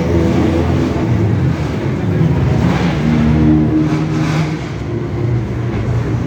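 Sports car engines running and revving as cars drive past, the engine note rising as one accelerates about halfway through.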